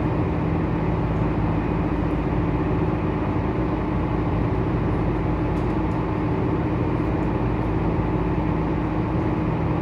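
A tour boat's engine running steadily as it cruises, a constant low hum under a steady rush of noise.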